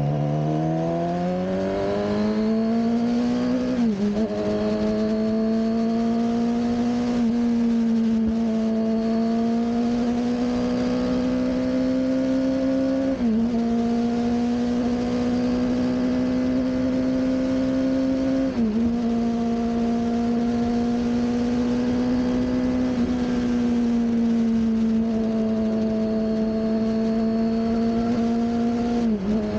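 Suzuki GSX-R600 K7 inline-four engine heard from on board while riding. The revs rise over the first few seconds, then hold fairly steady, with a brief dip in revs four times.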